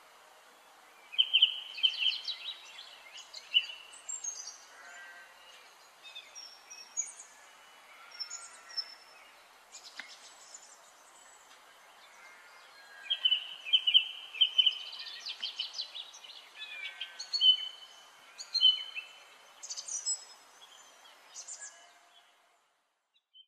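Thorn-tailed rayaditos calling: bursts of rapid, high chattering trills and sharp chirps, loudest about a second in and again about halfway through, over a faint steady hiss.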